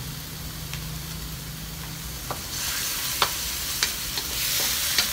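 Chicken pieces with garlic and onion sizzling in a hot wok. About two and a half seconds in the sizzling gets louder as a wooden spatula starts stirring, with several sharp knocks of the spatula against the pan.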